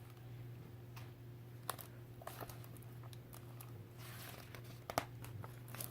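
Quiet room tone with a steady low hum, broken by a few faint clicks and paper rustles from a picture book's pages being handled.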